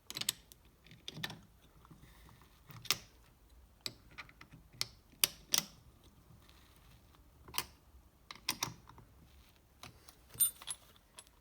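Irregular sharp metal clicks and taps from handling and tightening a piston ring compressor around a piston, about a dozen scattered through, loudest near the end.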